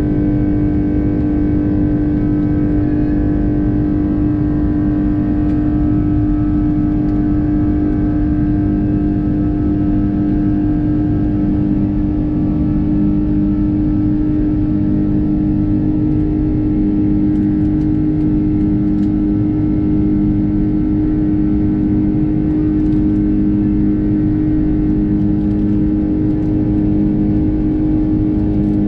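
Cabin drone of an Airbus A330-300's Rolls-Royce Trent 700 turbofan engines, heard from a window seat: a steady, even hum with one strong tone and a slow pulsing beat underneath.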